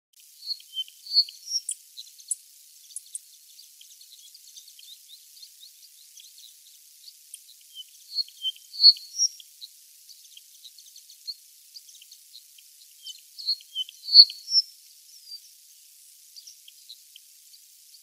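Short, high-pitched chirps of a small songbird in three loose clusters: about a second in, around nine seconds in, and around fourteen seconds in. Faint scattered high ticks fill the gaps.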